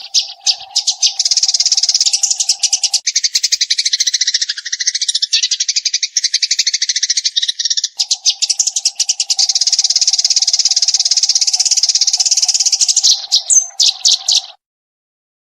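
Eurasian tree sparrow chattering in a fast, unbroken run of rapid chirps, its rapid-fire 'tembakan' burst song, with a steady lower tone underneath for the first three seconds and again from about eight seconds. It cuts off suddenly about a second before the end.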